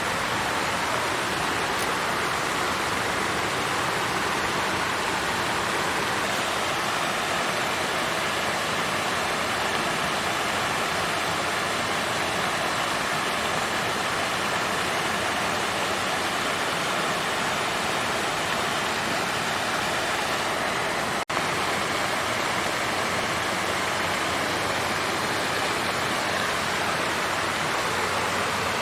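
Water fountain flowing steadily, an even splashing rush of falling water with no changes, apart from a split-second gap in the sound about two-thirds of the way in.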